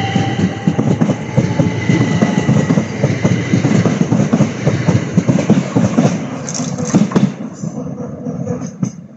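Southeastern Class 375 electric multiple unit departing, its wheels giving dense clatter over the rail joints, with a steady high whine that fades out in the first few seconds. The noise drops away about seven seconds in as the train pulls clear.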